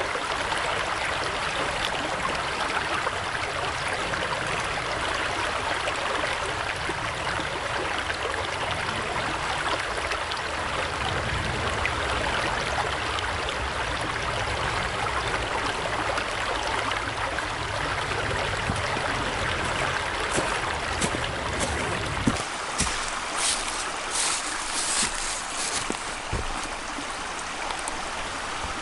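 Steady rush of running water, with a few sharp clicks and knocks in the last few seconds.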